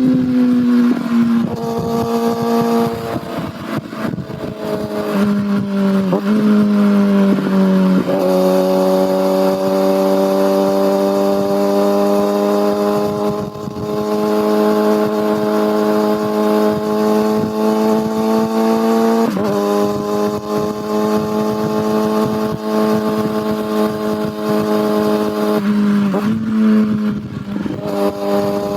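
Kawasaki ZX6R inline-four engine and exhaust running at fairly steady revs while riding, the pitch holding or slowly rising for long stretches and briefly breaking and stepping several times, with wind and road noise underneath.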